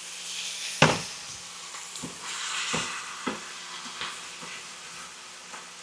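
Chicken and vegetables sizzling in a hot stir-fry pan on high heat, a steady hiss. A sharp knock comes about a second in, followed by several lighter clicks of a utensil against the pan.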